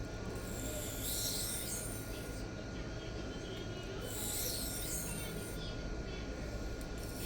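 Steel knife blade drawn in light deburring passes across a Sharpal diamond sharpening plate: a soft scraping hiss about once every three seconds, each stroke lasting about a second.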